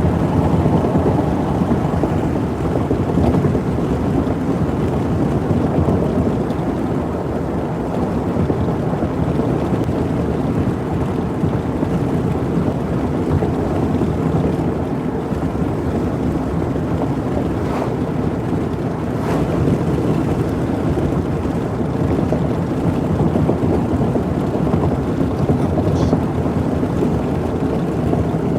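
Steady low rumble of a moving vehicle's road and wind noise, with a couple of faint clicks about two-thirds of the way through.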